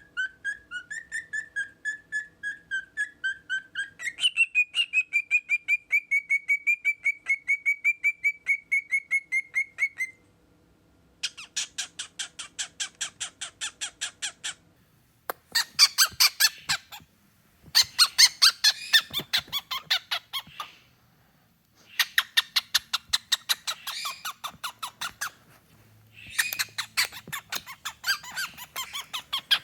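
Cockatiel making fast stuttering calls: about ten seconds of a quick run of pitched, repeated chirps that steps up in pitch partway through, then several bursts of harsh, raspy rapid chatter with short pauses between.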